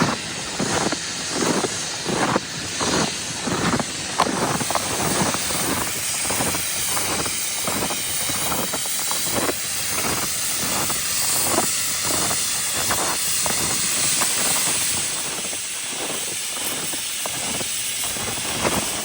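Snow-making machines blowing artificial snow with a steady loud hiss. Footsteps crunch through snow at about two steps a second and fade out near the end.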